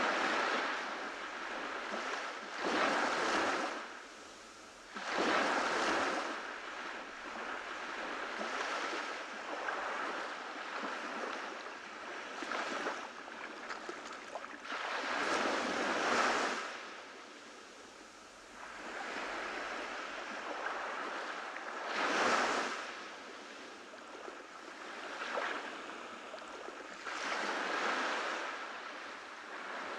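Ocean waves breaking on a beach, each wave swelling into a hissing surge and falling away, a few seconds apart in an uneven rhythm.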